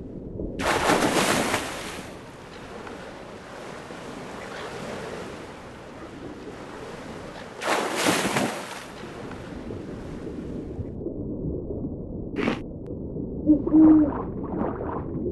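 Two loud surges of rushing water like waves washing in, each lasting about a second and a half and coming about seven seconds apart, over a steady low rumble. Near the end there is a sharp click and then a few short pitched sounds.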